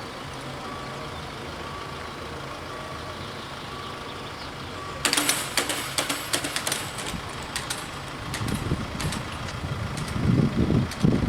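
Level-crossing warning bell sounding a repeating electronic tone, which stops about five seconds in. A sudden spell of loud rattling and crackling follows, and then the low rumble of an approaching DB class 646 diesel railcar grows steadily louder near the end.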